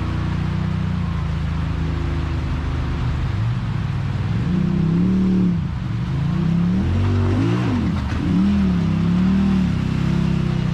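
Side-by-side UTV engine running steadily, then revved up and down several times from about halfway in, as it works up a steep rocky trail, before settling back to a steady run near the end.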